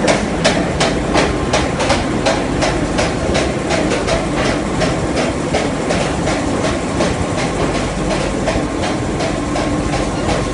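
Glass mosaic production machine running, with a steady rhythmic clatter of sharp strikes about three a second over a continuous machine noise.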